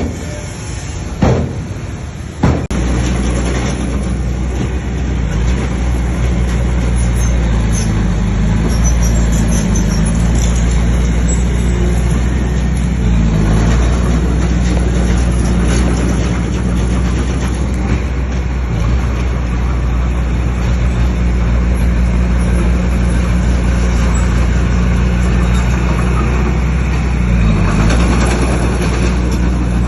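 Heavy diesel engine of a bulldozer running steadily under load. A few sharp knocks come in the first three seconds.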